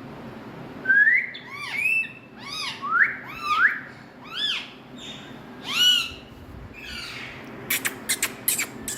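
Parrot calling in a series of short, arched whistling squawks that rise and fall in pitch, coming fast in the first two thirds, followed near the end by a quick run of sharp clicks.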